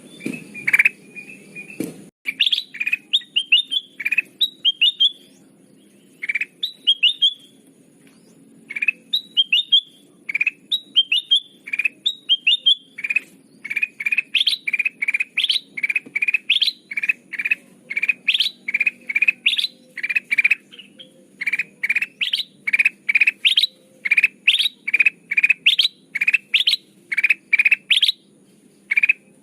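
Kutilang emas (a yellow bulbul) calling, a lure call: short, bright chirping phrases with pauses, then from about halfway through a fast string of repeated notes, about two a second.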